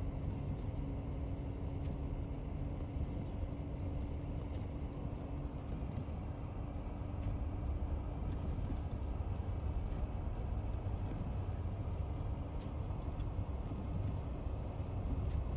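Patrol vehicle driving on a snow-covered road, heard from inside the cab: a steady low rumble of engine and road noise. A steady hum sounds for the first several seconds and then fades into the rumble, with a few faint ticks scattered through.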